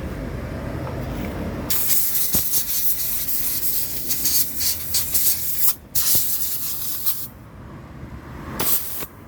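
Pressurised spray hissing in bursts: one long blast of about five seconds with a brief break partway, then a short blast near the end.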